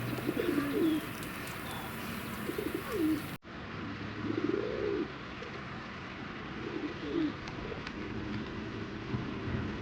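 Pigeons cooing: several low, rising-and-falling coos a second or two apart, with faint small-bird chirps behind.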